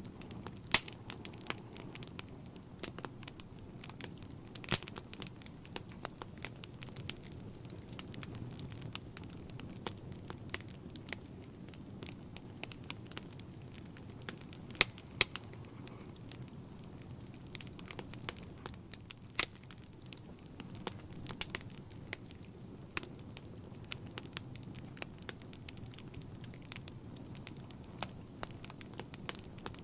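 Wood fire burning in a fireplace: irregular sharp crackles and pops over a low steady rumble of flame.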